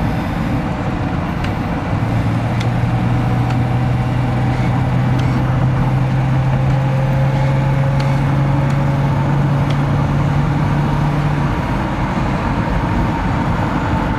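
1978 Mercedes-Benz 280SE's 2.8-litre DOHC inline-six M110 engine running under way, with road noise, heard while driving. A steady low drone holds through most of the middle, and a faint whine rises slowly.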